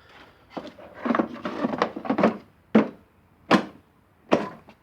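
Hard objects being handled: a run of scraping and clattering, then three sharp knocks less than a second apart.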